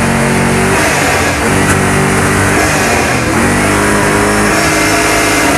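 Car engine revved and held at steady high revs three times, with two brief drops in between, for an exhaust loudness test.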